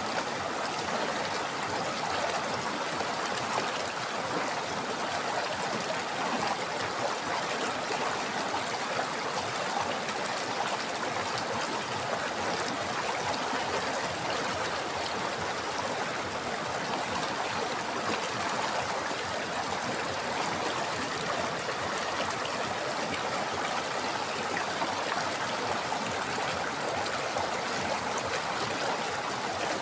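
A river flowing over rocks, a steady rushing and babbling of water.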